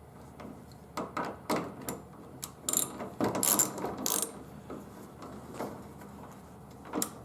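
Ratchet wrench clicking in short runs as a bolt is wiggled into place and run into a plastic clip fitting, left loose rather than tightened.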